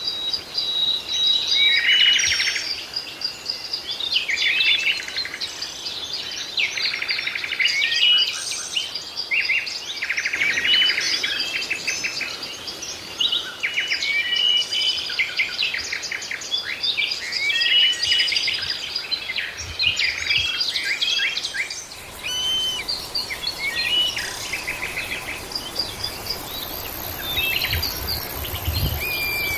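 Many birds chirping and singing at once: a dense chorus of quick, high calls and trills overlapping one another. A faint, high, steady tone joins near the end.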